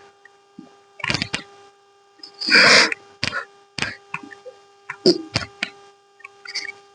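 A man breathing hard with sharp, noisy exhales after a set of weight lifts, among short clicks and knocks, over a steady electrical hum.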